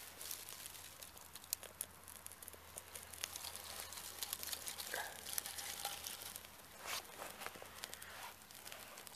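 Faint crackling and rustling of dry tinder and small kindling as a campfire is being started, with many scattered small ticks and crackles.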